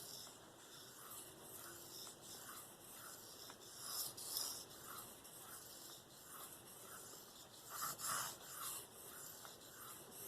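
Steel knife blade, a K390 Spyderco Endura 4, being stroked freehand across a Venev diamond sharpening stone: a faint, rhythmic scraping at about two to three strokes a second, with a few louder strokes partway through. This is the work on the finer grits after the coarse stones have set the edge.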